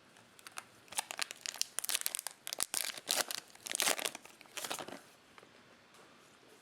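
Plastic cellophane wrapper of a Topps Chrome cello pack being torn open and crinkled, a string of quick, sharp crackles lasting about four seconds before it settles.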